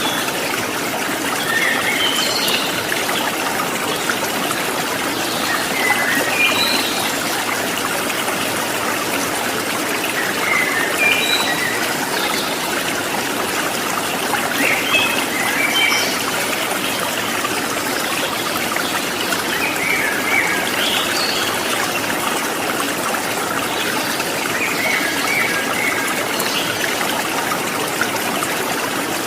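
Water trickling and babbling steadily, like a small stream, with short high bird chirps every few seconds.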